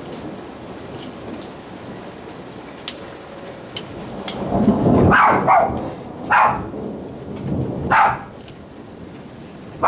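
Steady rain falling, with a rumble of thunder about halfway through. A dog barks a few times during and after the thunder.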